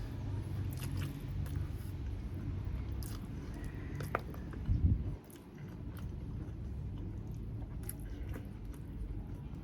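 A person chewing and biting food close to the microphone, with scattered wet clicks of the mouth. There is a dull low thump about five seconds in.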